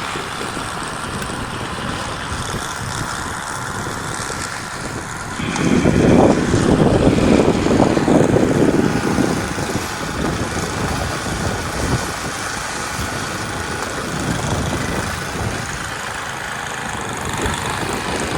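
A steady engine-like hum, with a louder, rougher rush of sound from about five and a half to nine and a half seconds in.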